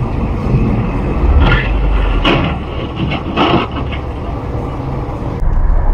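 Road vehicle noise: a steady low engine and road rumble, with three short louder bursts of noise about one and a half, two and a quarter, and three and a half seconds in.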